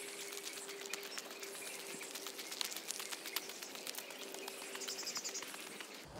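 Faint outdoor ambience of birds chirping, with a short run of quick high chirps about five seconds in. A steady hum runs underneath, with scattered light clicks.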